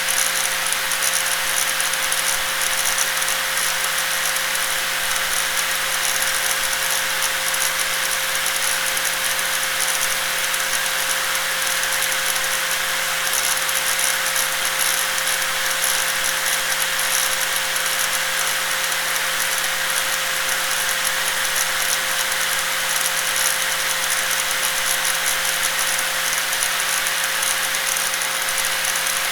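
Angle grinder running steadily: a constant whine over a rattling hiss that does not change.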